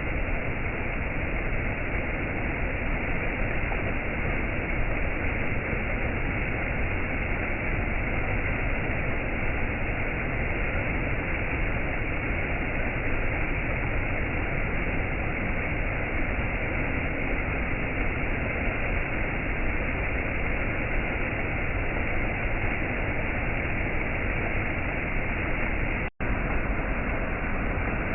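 Steady rushing water of a waterfall, an even noise with no rhythm, that cuts out for a split second near the end.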